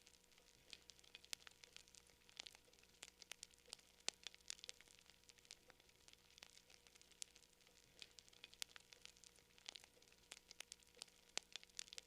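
Campfire crackling: quiet, irregular sharp pops and snaps of burning wood, several a second, over a faint steady hum.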